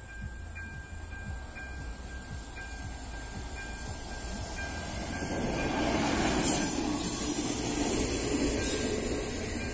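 AŽD 97 level-crossing warning with its ZV-02 electronic bell sounding, a steady tone with a strike about once a second. From about five seconds in, a České dráhy Regionova diesel railcar rolls across the crossing, its wheels and engine growing louder than the bell.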